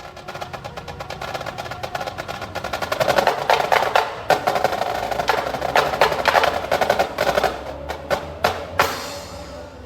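A band's percussion section playing a fast, dense run of drum and block strokes that swells in loudness, then a few separate accented hits near the end before it stops.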